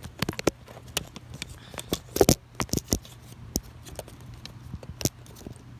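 Camera handling noise: irregular clicks, knocks and scrapes as the camera mount is pried off and refitted, with a denser cluster of knocks about two seconds in.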